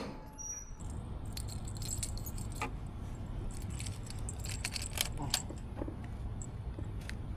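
A set of keys jangling and clicking in short scattered bursts, over a steady low rumble.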